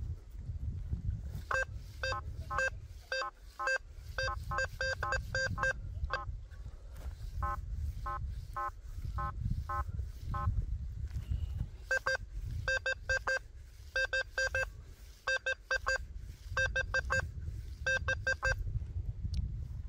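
Quest V80 metal detector sounding short target beeps, all at one buzzy pitch, in quick runs of several at a time as the 11-inch coil sweeps over targets in its 15 kHz Field program with All Metal on. A low rumble runs underneath.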